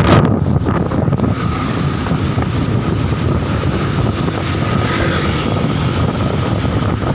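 Strong wind buffeting the microphone on a moving motorcycle, over the steady drone of the motorcycle's engine and road noise.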